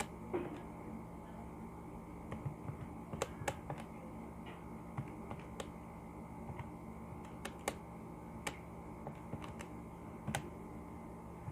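Irregular light clicks of calculator keys being pressed while the figures are entered, over a steady low hum.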